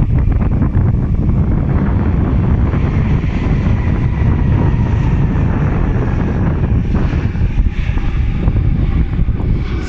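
Strong wind buffeting the microphone, with the rumble and a faint steady whine of a jet airliner's engines underneath.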